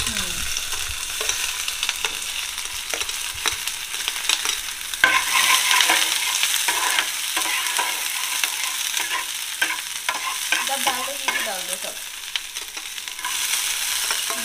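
Chopped onion and capsicum sizzling as they fry in a small metal pan, stirred with a steel spoon that clicks and scrapes against the pan. The sizzle gets louder about five seconds in.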